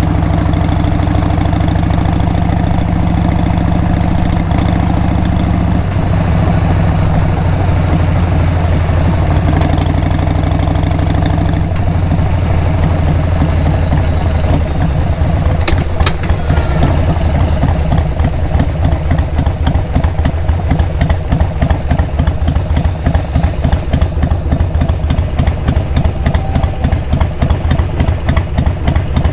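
Harley-Davidson XL883R Sportster's 883 cc air-cooled V-twin through Cobra 909 Speedster Short mufflers, running at a steady speed with its pitch stepping down about six seconds in and dropping again near twelve seconds. It then settles to idle with a regular pulsing beat.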